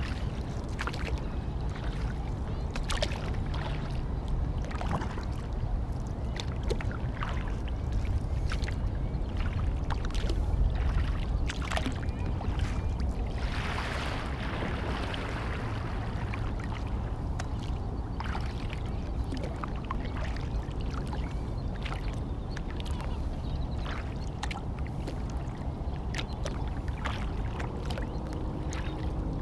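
Kayak paddle strokes and dripping water on a lake, with scattered light clicks over a steady low rumble; a louder wash of water about halfway through.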